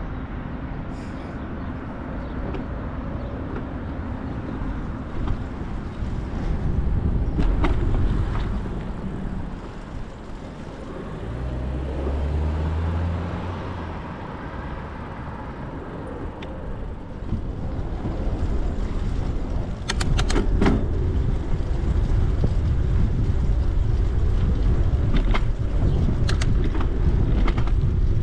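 Wind buffeting the camera microphone and tyre rumble from a moving bicycle, with a few sharp clicks and rattles. About halfway through, a low droning hum rises slightly in pitch for a couple of seconds, and the rumble grows louder in the last third.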